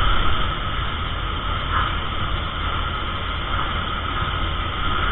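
Steady car noise while driving: a low engine and road rumble with an even hiss.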